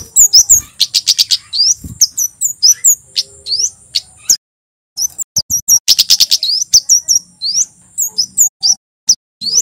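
Male flowerpecker ('kemade jawa') singing: rapid, very high, thin chirps and sweeping notes over a steady high whistle, with a short break a little over four seconds in before the song resumes.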